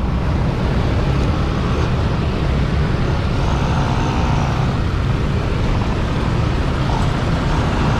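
Wind rush buffeting the microphone on a moving motorbike, with the bike's engine and surrounding road traffic underneath, steady throughout.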